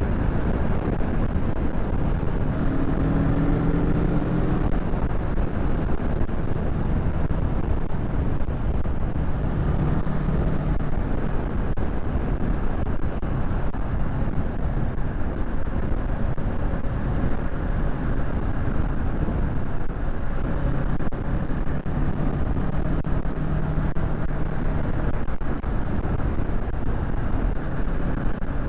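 Kawasaki Z650's parallel-twin engine running steadily at cruising speed under heavy wind rush on the rider's microphone, its engine note showing through more clearly a few times.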